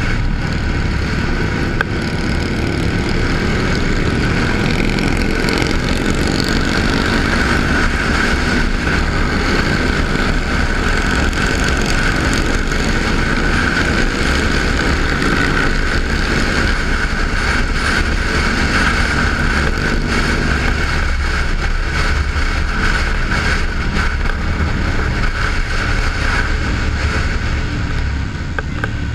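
Motorcycle running steadily while riding, with wind noise on the microphone.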